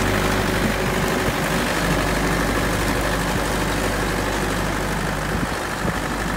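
Tractor engine running steadily at an even speed, with a faint steady high whine above the engine note.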